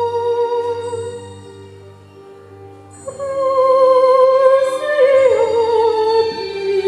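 Operatic singing voice holding long notes with vibrato over a quiet instrumental accompaniment. The voice fades out about a second in, and after a short quieter pause the singing comes back at about three seconds.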